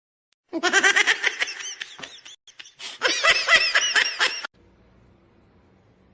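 High-pitched laughter in quick repeated ha-ha bursts, in two bouts of about two seconds each. It stops about four and a half seconds in, leaving a faint low hum.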